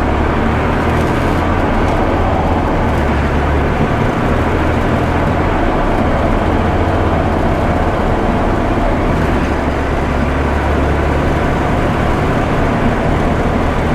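Ready-mix concrete mixer truck driving along the road: a steady engine drone with road noise.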